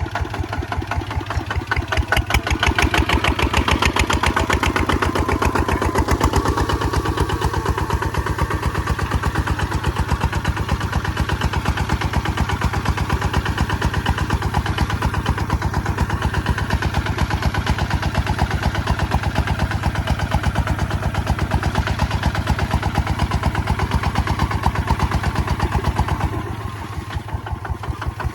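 Kubota ZT155 single-cylinder diesel engine running steadily with a fast, even chugging, as when plowing. It gets louder about two seconds in and eases back near the end.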